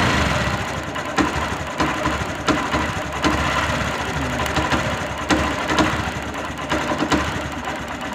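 BS6 Honda Shine's single-cylinder engine idling unevenly, with sharp knocks at irregular intervals about every half second to second. The engine is stumbling and catching (गुचकी मार रही है), a misfire the mechanic blames on the key switch and checks the spark plug for.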